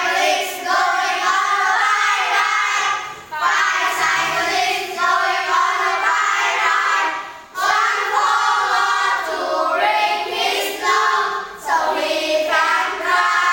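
Children's voices singing a song together in phrases a few seconds long, with short breaks between them.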